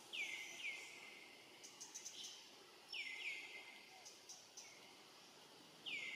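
A bird calling with short, falling whistled notes, mostly in pairs, about three seconds apart. Faint ticks fall between the calls.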